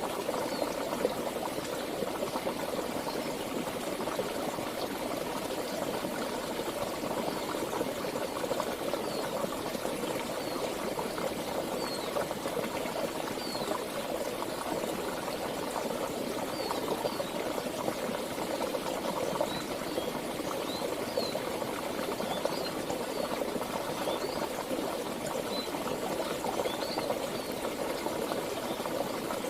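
Stream water flowing steadily, a continuous rushing babble, with short high chirps scattered over it.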